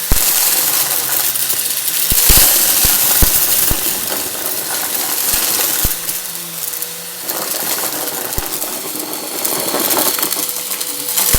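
Vacuum cleaner running over a confetti mess, with muffled suction and a steady hum. Scattered bits click and rattle sharply as they are sucked up, several at a time around the first few seconds and singly later on.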